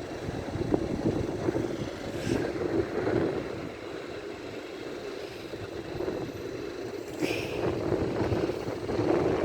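East Midlands Railway Class 158 diesel multiple unit running into the platform: a steady rumble of engine and wheels, with two brief sharper sounds about two seconds in and near seven seconds in.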